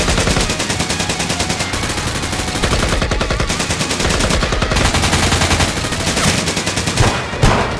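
Gunfire sound effects: several automatic weapons firing rapid, overlapping bursts without a break, with a louder single shot near the end.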